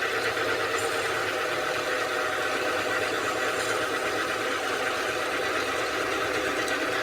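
A steady mechanical running sound from an engine or workshop machine, even in level throughout.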